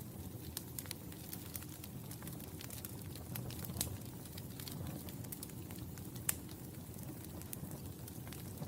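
Wood fire burning in a fireplace: a steady low rumble of flames with constant small crackles, and two sharper pops, one about four seconds in and one about six seconds in.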